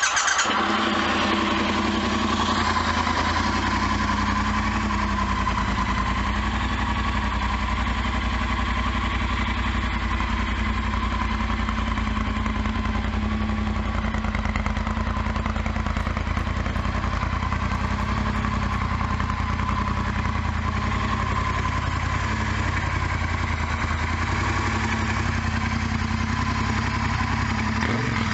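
2017 Triumph Bonneville T120's 1200 cc parallel-twin engine idling steadily through aftermarket slip-on exhausts, with the catalytic converter removed and an X-pipe fitted.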